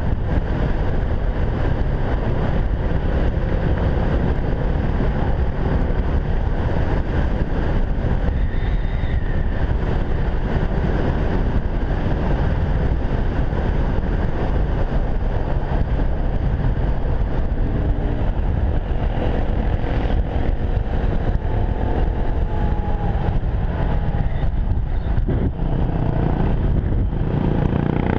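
Enduro motorcycle engine running under way, its revs rising and falling, with wind noise on the microphone.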